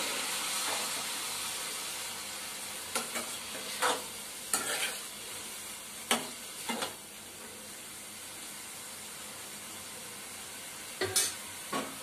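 Sprouted mung beans sizzling in a metal kadhai just after a splash of water, the sizzle easing off after the first few seconds. A metal spatula scrapes and clinks against the pan several times as the mixture is stirred.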